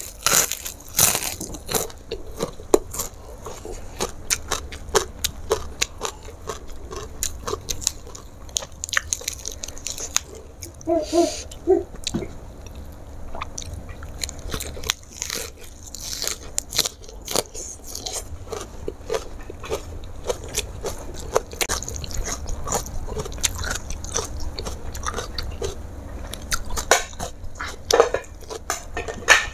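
Close-up eating sounds: crisp bites and chewing of a crunchy rice cracker (kerupuk) and raw vegetables, with many sharp crackling crunches.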